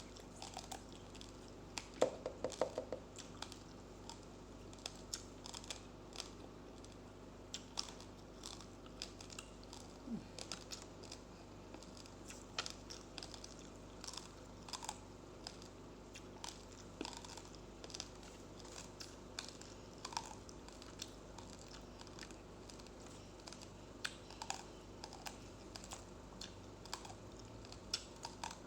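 Raw, uncooked rice grains being crunched between the teeth, heard close up: many small, sharp cracks at an irregular pace, with a louder cluster about two seconds in.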